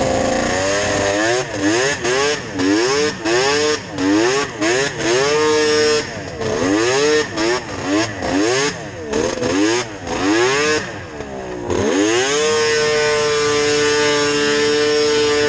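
Yamaha VMax 700 three-cylinder two-stroke snowmobile engine with Hauck aftermarket pipes, revving up and down in quick repeated throttle swells, then held at steady high revs for the last few seconds.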